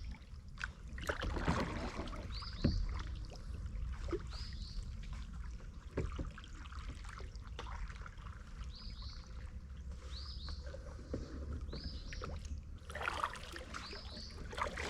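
Kayak on the water: paddle knocks and bumps against the plastic hull with light water trickling, over a steady low rumble. Short high chirps recur every couple of seconds.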